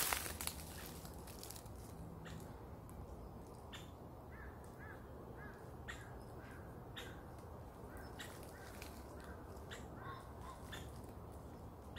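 Wild forest birds calling faintly: scattered short chirps and calls, with a quick run of repeated arched notes a few seconds in.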